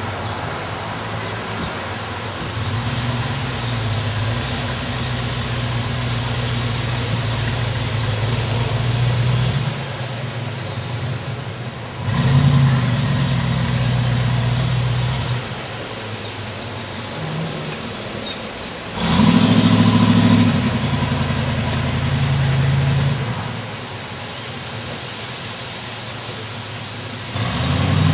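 Buick engine of a De Vries Bucciali TAV 30 replica running at idle, rising in revs and loudness for a few seconds at a time about three times. Birds chirp faintly in the background.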